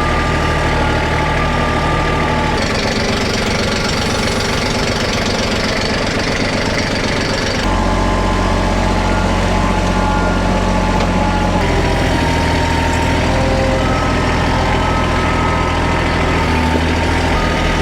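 Heavy-equipment engine running steadily, its note shifting a few times as the machine is worked: about two and a half, seven and a half and twelve seconds in.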